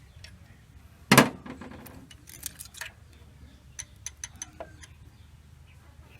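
Metal hand tools clanking and clicking on the rocker-arm valve train of a Toyota 4K engine during a valve clearance adjustment: one loud clank about a second in, then a scatter of sharp metallic ticks, a few of them ringing briefly.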